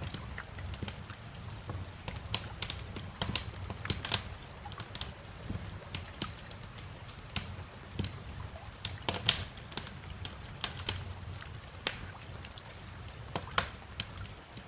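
Wood fire in a fireplace crackling, with irregular sharp pops, some much louder than others, over a low steady rumble.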